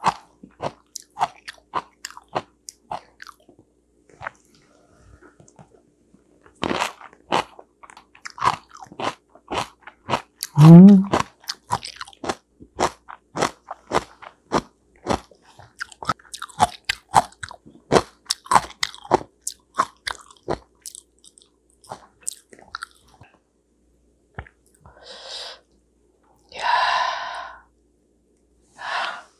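Close-up chewing and biting of steamed sweet potato with fresh cabbage kimchi, a steady run of short, crisp crunches. A brief hum of the voice about eleven seconds in, and a few breathy noises near the end.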